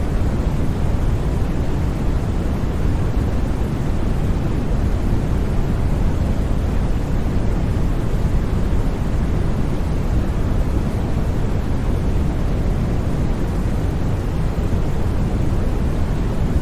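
Continuous white noise for sleep: an even, unbroken rush with no changes or sudden sounds. Most of its weight sits in the low end, so it sounds deep rather than hissy.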